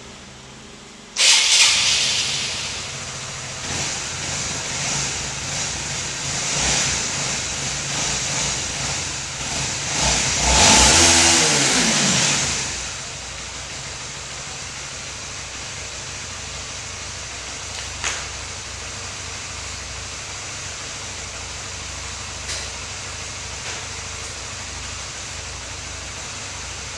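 Wind and rolling noise on the camera's microphone while riding a mountain bike, starting suddenly about a second in. A motor vehicle passes about ten to twelve seconds in, its engine the loudest sound, then the noise settles to a steadier, quieter rush.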